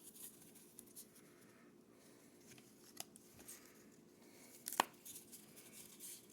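Trading cards being handled and sorted by hand: faint slides and taps of card stock, with a sharper snap about three quarters of the way through.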